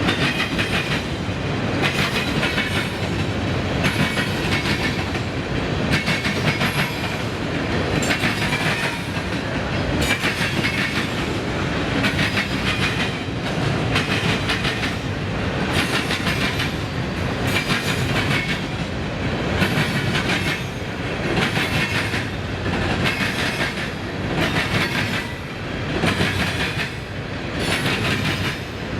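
Freight train cars rolling past at steady speed. Their wheels clack over the rails in a repeating rhythm of about one surge every two seconds.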